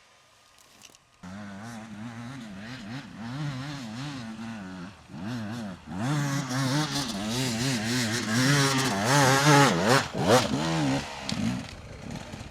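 Dirt bike engine revving up and down on a steep grassy hill climb, starting about a second in and getting much louder about halfway through, then easing near the end. The uneven revs go with the rear wheel losing grip on slippery grass.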